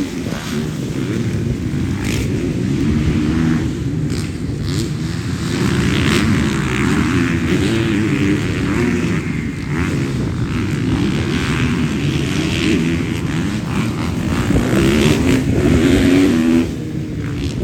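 Motocross motorcycle engines running and revving on the track, the engine note rising and falling throughout. It is loudest near the end, then drops off suddenly.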